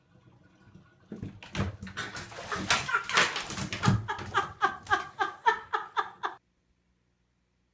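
A dog whining and yelping: first rough cries, then a quick run of short whiny calls, about four a second, that cuts off suddenly.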